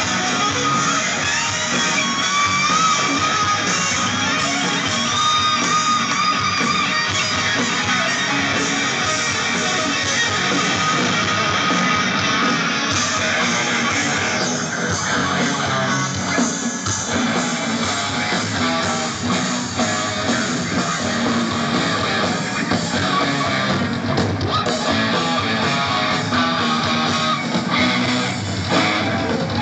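Hard rock band playing live with loud electric guitars, with long held guitar notes in the first several seconds.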